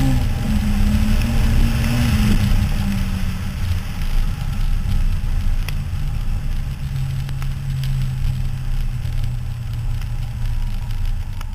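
Toyota Starlet rally car's engine pulling hard along a gravel track, its note wavering high for the first few seconds, then dropping to a lower, steadier pitch, over constant road and wind noise with a few sharp ticks.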